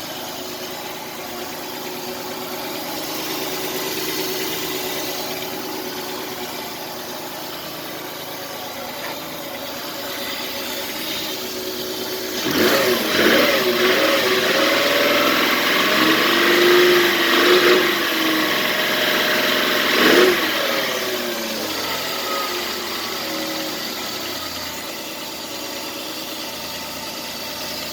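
A 2002 Ford Ranger engine with 161,000 miles running at idle. About twelve seconds in it is revved up and down for some eight seconds, with a sharp blip near the end, then settles back to a steady idle.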